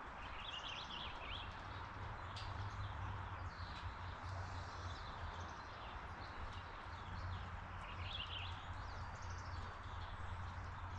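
Small birds chirping over a steady low background hum, with two short bursts of rapid warbling notes, about half a second in and again about eight seconds in.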